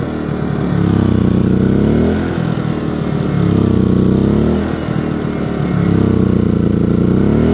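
Generac iQ2000 inverter generator's small single-cylinder engine surging, its speed rising and falling about every two and a half seconds, three times over, while it powers only a lamp. This hunting is not normal for it, and the owner suspects a fuel problem.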